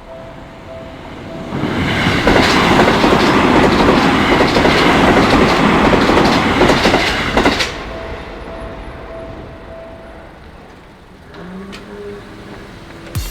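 Seibu Shinjuku Line train passing over the level crossing, its wheels clattering over the rails for about six seconds. A level-crossing warning bell rings before and after the train and stops about ten seconds in.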